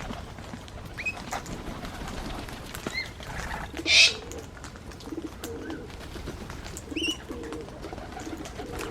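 Birds at a feeding table: soft, low, repeated cooing from a pigeon or dove, starting about halfway through. A loud, short, high bird call comes about four seconds in, with a few thin chirps scattered around it.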